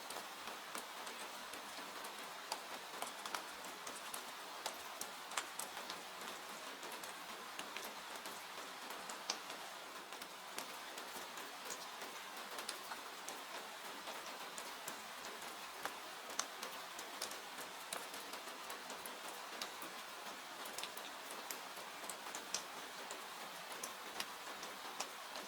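Steady hiss of rain with scattered sharp crackles and pops from a wood fire.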